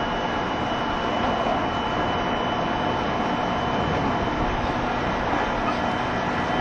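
JR Shikoku 7200 series electric train running at a steady speed, heard from inside the car: steady wheel and rail noise with a faint steady whine.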